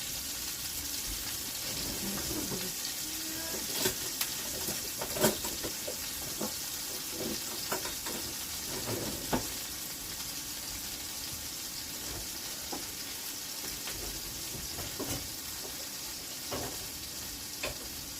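Ground turkey frying in a hot pan: a steady sizzle, broken by a few short, sharp knocks.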